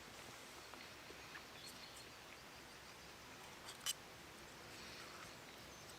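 Near silence: faint outdoor ambience with a few soft high clicks, the sharpest a little before the four-second mark.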